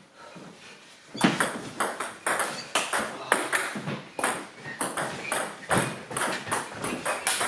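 Table tennis rally: a celluloid-type ball clicking back and forth between bats and table, about three sharp clicks a second, starting about a second in.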